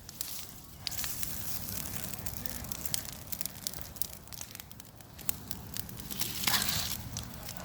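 Bonfire of dry tree branches burning, crackling with many sharp pops over a steady rushing noise. A louder rushing surge comes about six and a half seconds in.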